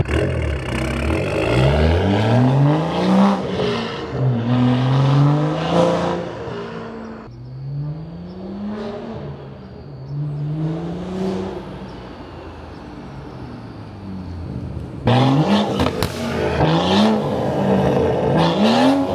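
BMW 335i/435i turbocharged inline-six revving up and down again and again through a catless downpipe, M Performance mid pipe and muffler-deleted exhaust. It goes quieter for several seconds in the middle and comes back loud suddenly about fifteen seconds in.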